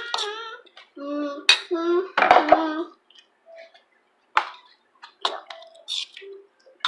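A child's voice for about the first three seconds, then scattered light clicks and clinks of dishes and cutlery.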